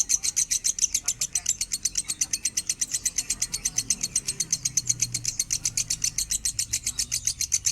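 Lovebird singing a long unbroken chatter of rapid, high-pitched chirps, about ten a second.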